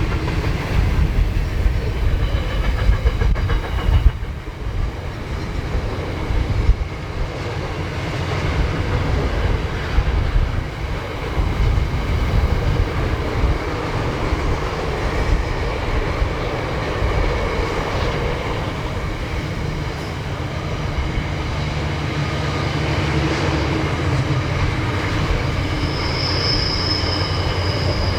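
A long train rolling past, its wheels clattering over rail joints with a steady low rumble. A brief high-pitched wheel squeal comes near the end.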